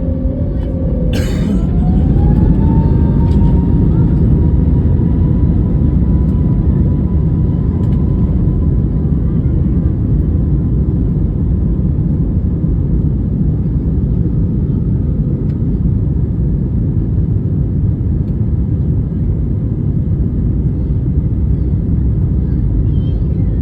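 Airbus A320 jet engines spooling up to takeoff thrust, heard from inside the cabin: a whine rises in pitch over the first two or three seconds and then holds steady over a loud, even rumble of engines and runway. A brief click sounds about a second in.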